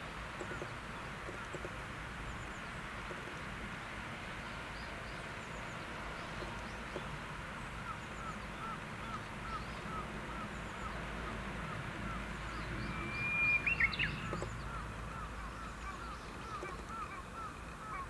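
Birds calling: a long run of short, hooked calls about twice a second, over steady low background noise, with one louder, sharper call about thirteen seconds in.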